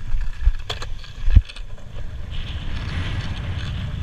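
Strong wind buffeting the microphone with a low rumble, broken by a few sharp clicks and one heavy thump about a second and a half in; from about halfway a steady hiss joins the rumble.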